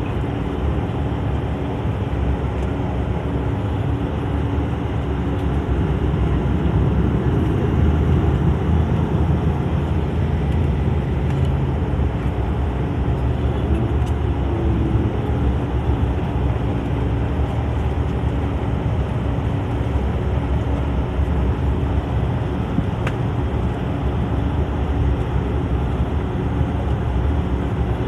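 Steady engine and air-conditioning noise inside an airliner's cabin after landing, with the seatbelt sign still on.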